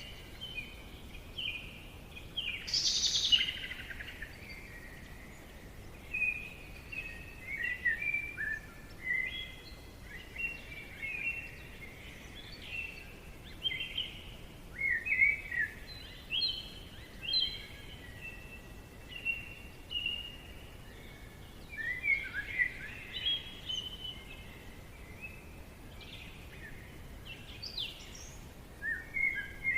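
Forest birds singing: a steady stream of short chirps and whistling phrases from several birds, with one louder, higher call about three seconds in, over a faint background hiss.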